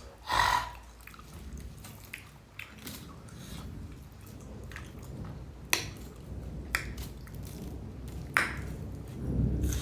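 A person eating rice and egg curry by hand, chewing with a few sharp mouth clicks spaced about a second apart in the second half, and a short breath near the start.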